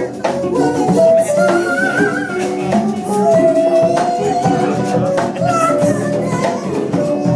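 Live band music with a singer holding long, sliding sung notes over the accompaniment.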